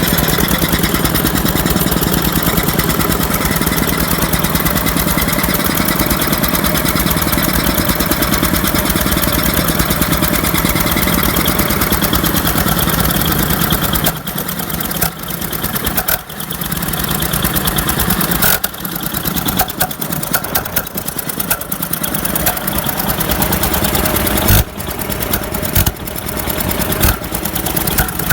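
Modified late-1950s Kohler oil-field pump-jack engine running with a rapid, even firing beat. About halfway through, the sound turns uneven, with brief dips and drop-outs.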